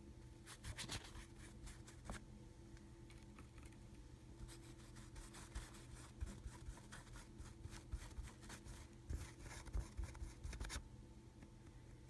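Stiff paintbrush dry-brushing across a cast Hydrocal plaster wall: quick, scratchy strokes, a short spell near the start and a longer one from about four seconds in, over a steady low hum.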